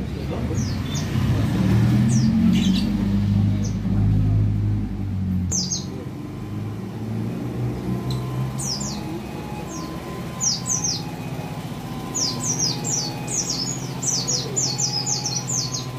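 White-eye (pleci) calls: short, high chirps that slide down in pitch, scattered at first, then a quick run of them in the last few seconds. A low rumble underneath is loud at the start and fades about five seconds in.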